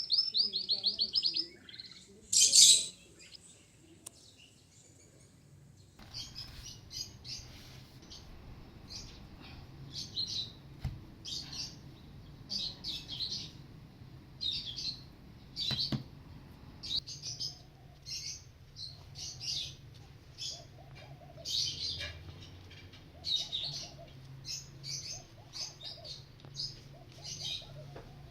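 Small birds chirping: a loud rapid trill at the start, then a steady run of short, high chirps repeating every half second to a second over a faint low hum.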